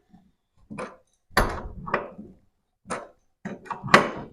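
Irregular clunks and knocks of metal tools and suspension hardware being handled while a strut bolt is fitted. About seven separate sharp knocks, the loudest just before the end.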